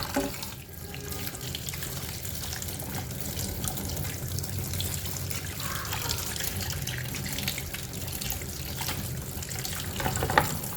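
Water running from a tap over a plastic washing-machine detergent dispenser tray being rinsed, with light knocks of the tray as it is handled and a sharper knock near the end.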